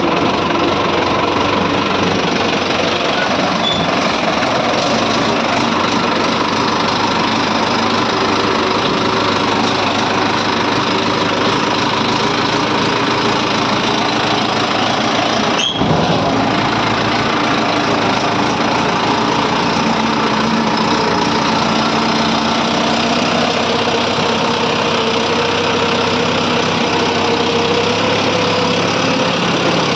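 Tractor engine running steadily and loudly while the tractor is stuck, with a brief sharp break about 16 seconds in.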